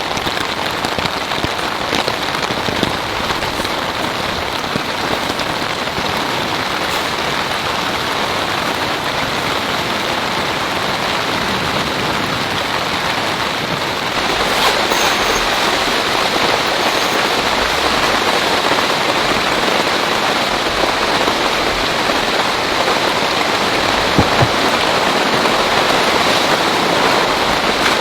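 Heavy rain falling steadily, growing a little louder about halfway through, with a few sharper drops ticking.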